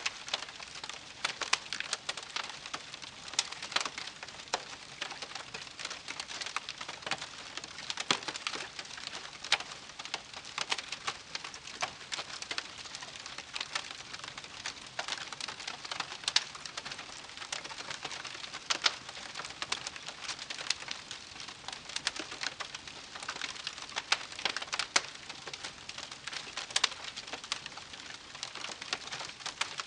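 Wood campfire crackling, with a steady hiss broken by frequent sharp, irregular pops and snaps.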